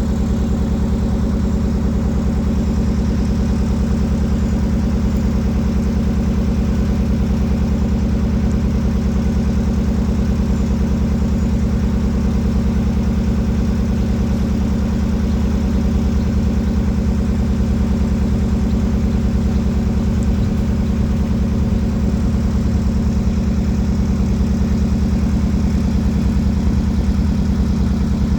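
Boat engine running at a steady speed, a constant low, even drone.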